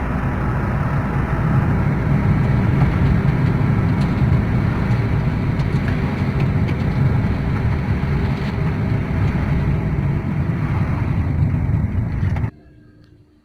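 Honda Brio Satya's 1.2-litre four-cylinder engine and road noise as the car drives at speed, a steady low rumble that cuts off abruptly near the end.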